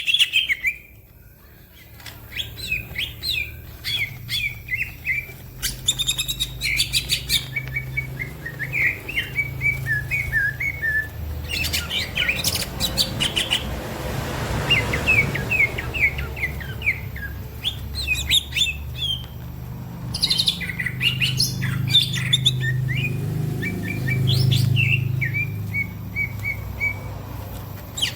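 Green leafbird (cucak ijo) singing in fast, busy chirping and trilled phrases, with other songbirds calling alongside; the bird is in full, energetic song (gacor). A faint low hum runs underneath.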